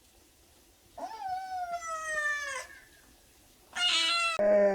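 Animal calls: a drawn-out call falling in pitch about a second in, then near the end a short high call that runs straight into a lower, longer one.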